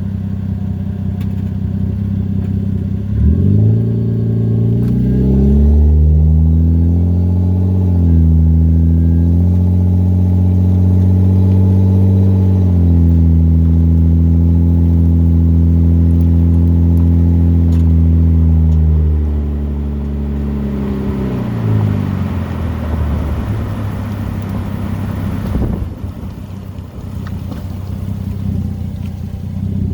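Exhaust note of a 2004 Volvo S80's naturally aspirated 2.9-litre inline-six, running straight through a deleted secondary catalytic converter into a DC Sports muffler. It starts low and steady, rises about three seconds in and holds at higher engine speeds with a couple of steps in pitch, then falls back around twenty seconds in, with a rushing noise for a few seconds before settling low and steady again.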